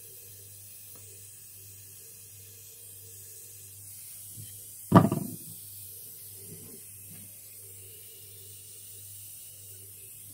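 A single sharp bang about five seconds in that dies away within half a second, over a faint steady low hum.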